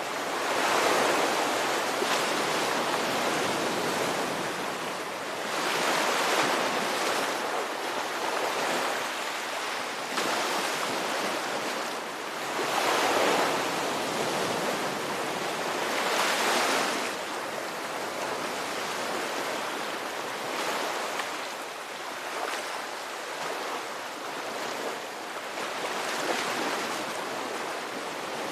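Ocean surf: waves breaking and washing in one after another, each swell rising and falling in a steady hiss, with the loudest surges coming every few seconds.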